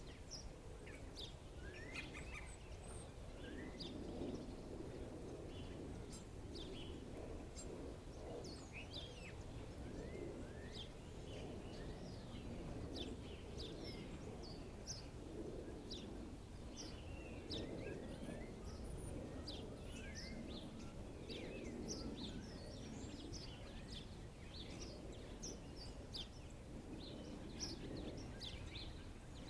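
A flock of blackbirds chirping: many short, quickly falling chirps, overlapping and nearly continuous, over a steady low background rumble.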